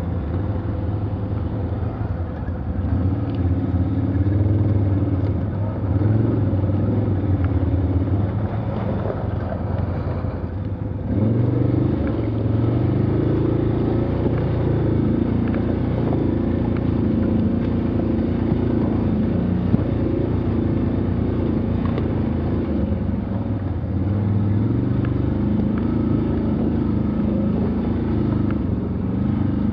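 Off-road vehicle engine labouring through mud, its pitch rising and falling as the throttle is worked, with a surge in revs about eleven seconds in.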